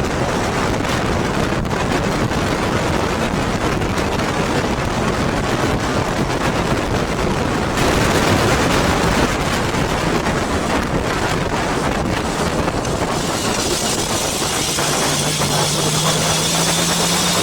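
Yamaha motorcycle being ridden, its engine running under heavy wind rush on the microphone. Near the end a low, steady engine note comes through and rises slightly in pitch.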